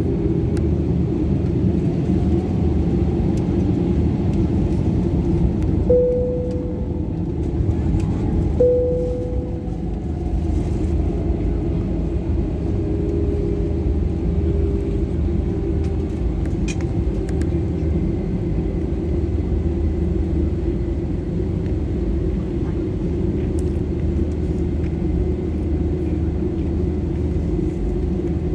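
Steady low drone of an Airbus A320's jet engines and airflow, heard inside the cabin in flight. About six seconds in, two short chime tones sound about two and a half seconds apart.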